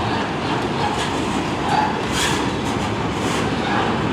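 CN freight train cars rolling past close by: a steady rumble of steel wheels on the rails.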